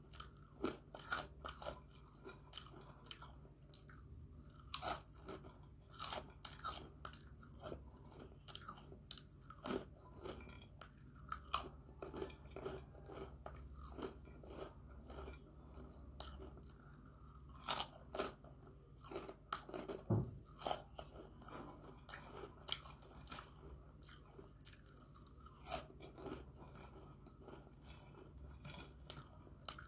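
A person chewing crunchy puffed snacks close to the microphone: irregular sharp crunches and crackles with softer chewing between them.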